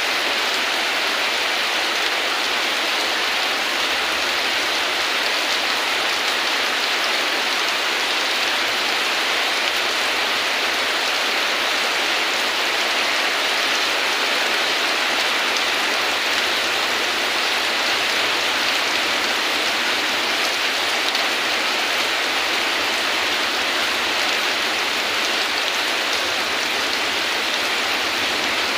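Steady heavy rain falling, an even hiss of drops with no change in strength.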